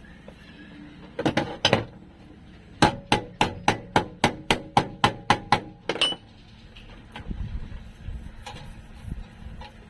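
Hammer striking the sheet-metal floor panel of a car: a few blows, then a steady run of about a dozen strikes at roughly four a second.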